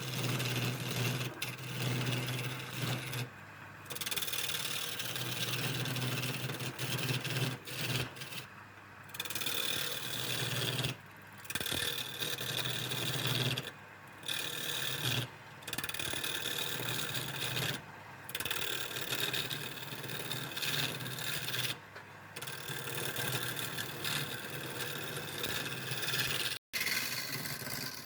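Electric power tool working wood, a motor hum under a rough scraping noise, stopping briefly every few seconds and starting again.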